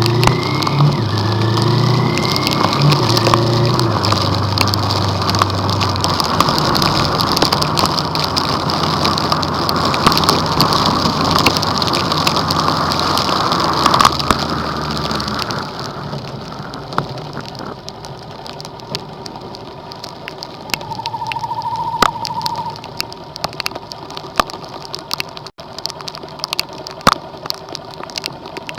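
Heavy storm rain pelting a moving car, dense drumming with sharp drop hits over engine and road noise. The downpour eases about halfway through to scattered drops.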